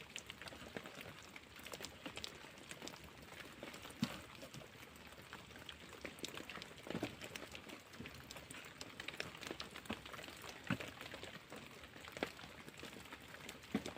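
Light rain pattering, heard as scattered drops ticking, with a few soft thumps now and then.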